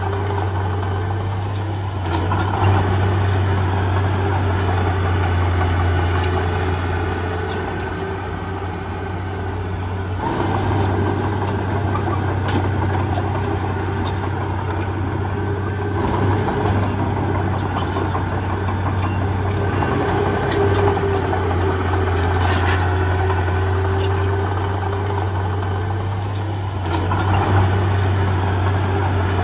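Heavy diesel engine of earthmoving machinery running steadily with a deep hum, the engine note swelling under load a few times, with scattered clanks and clicks.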